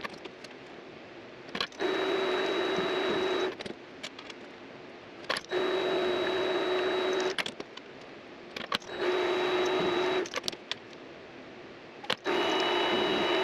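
Mini lathe's electric motor running in four short bursts of about two seconds each, with a steady whine, separated by pauses with clicks; the whine is pitched lower in the last burst.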